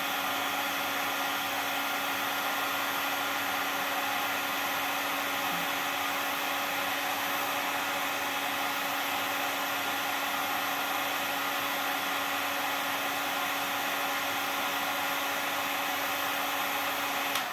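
Heat gun blowing hot air to melt plastic bottle caps, running at a steady pitch with a faint whine, then cut off at the very end.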